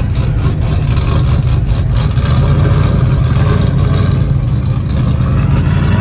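A loud vehicle engine running with a heavy low rumble, getting louder and noisier from about two seconds in and easing off near the end.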